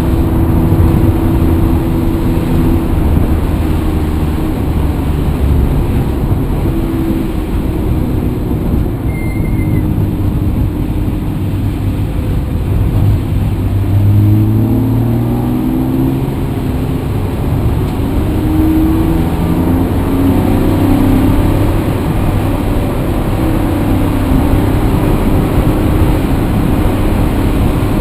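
Motor vehicle engine running under way, its note rising and falling several times as it speeds up and eases off.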